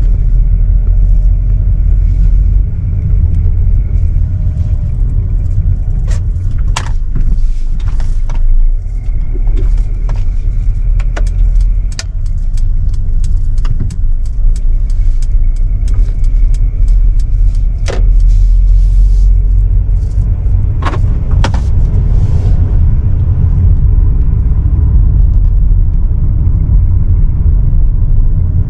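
Mercedes GLB250's 2.0-litre turbocharged petrol four-cylinder running, with a heavy low rumble, a faint high whine over it and scattered sharp clicks. The whine and diesel-like sound are what the owner doubts is normal, though the dealer says it is.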